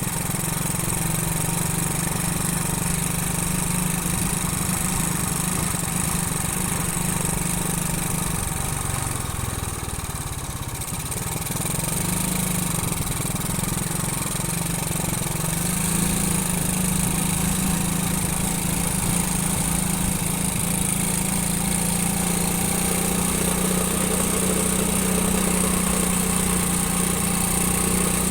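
Motorcycle engine running steadily while being ridden, with a constant hiss of wind and road noise. The engine note drops for a moment about ten seconds in, then picks up again over the next few seconds.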